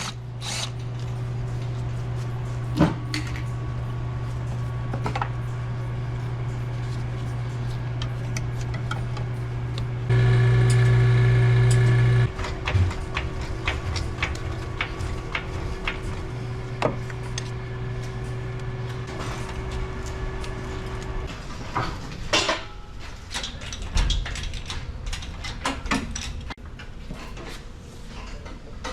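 Mechanic's hand tools clicking and knocking on a van's front end during an engine removal, over a steady low mechanical hum. About ten seconds in a louder buzz runs for about two seconds and stops.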